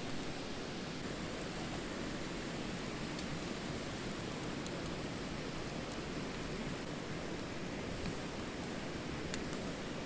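A steady rushing background noise with a few faint, sharp crackles scattered through it, fitting a wood campfire burning.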